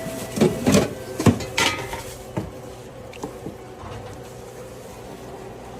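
Kitchen utensils clinking and knocking against dishes, several sharp strikes in the first two seconds, then quieter, over a steady low hum.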